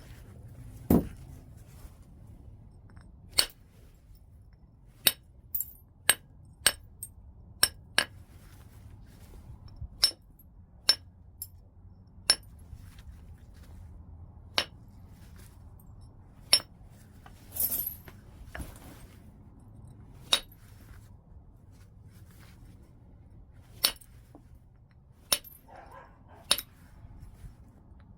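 White chert being knapped: sharp, glassy stone clicks at uneven intervals, some a second apart and some several seconds apart, as the stone is worked and flakes come off.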